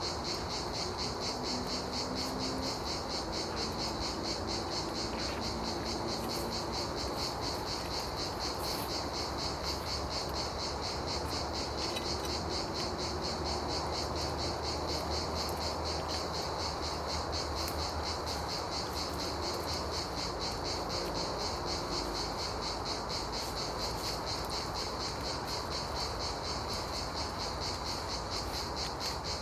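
Crickets chirping in a steady, continuous chorus of fast, evenly repeated high pulses.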